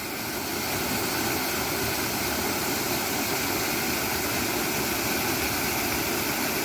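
Horsetail waterfall, water pouring down a cliff face while keeping contact with the bedrock, making a steady, even rush.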